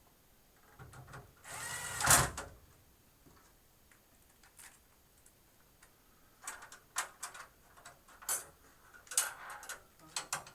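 Metal clatter from working inside a rack-mount computer case with loose screws in it. About two seconds in there is one loud scraping rattle lasting about a second. In the last few seconds comes a string of light clicks and taps.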